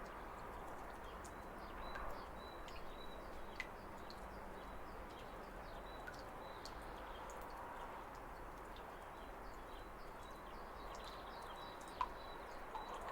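Waterfall running steadily, with small birds chirping and calling over the rush of water and an occasional sharp tick.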